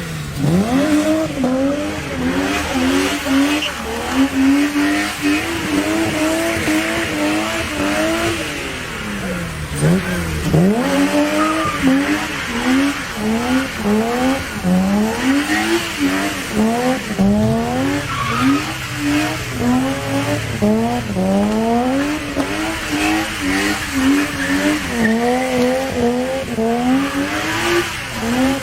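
BMW 325i's straight-six engine revved hard over and over, its pitch climbing and dropping back about once a second, with tyres squealing as the car spins. Twice, near the start and about ten seconds in, the revs fall low before climbing again.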